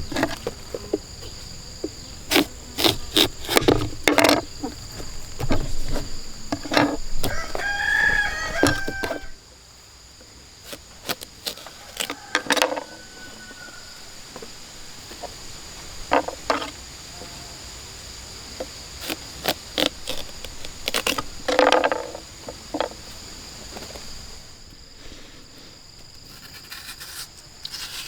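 A rooster crowing once, about eight seconds in, over a steady high insect drone. Scattered knocks and clatter come mostly in the first nine seconds, with a few more later.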